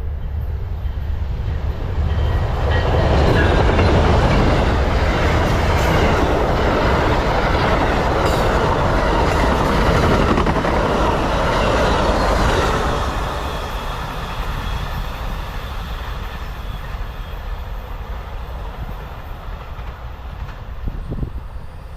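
Amtrak Silver Meteor passenger train passing at speed. The noise swells about two seconds in, stays loud until about thirteen seconds, then fades as the train moves away.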